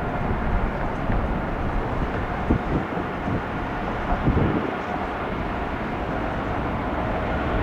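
Jet engines of a departing Boeing 787-9 airliner, a steady rumble with a faint whine.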